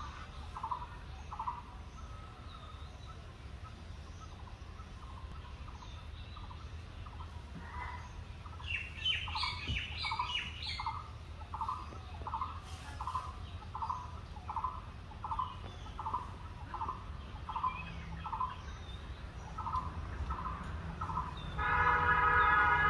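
Birds calling over a low steady rumble. A short note repeats about every half second through the second half, with a burst of higher chirping about nine seconds in. A louder, drawn-out call sounds near the end.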